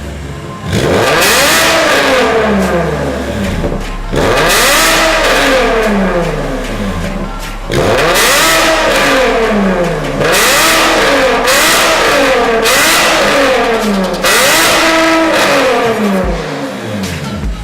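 Porsche Panamera S (970) engine and exhaust being revved repeatedly, about seven blips, each climbing quickly and dropping back toward idle between them.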